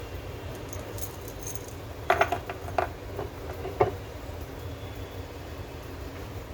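Several sharp clacks and rattles of hard parts being handled, bunched together between about two and four seconds in, over a steady low rumble.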